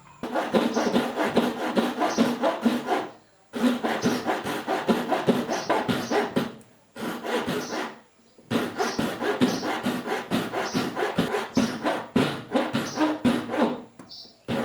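Hand saw cutting pine, quick back-and-forth strokes in four bouts with short pauses between them.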